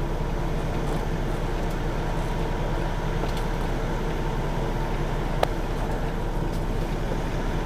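Semi truck's diesel engine idling steadily, with a single sharp click about five and a half seconds in.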